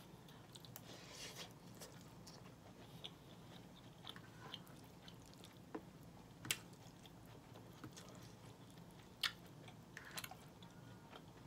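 Faint close-up chewing of a mouthful of collard greens and rice, with scattered small ticks and a few sharp clicks as a metal fork scoops food on the plate.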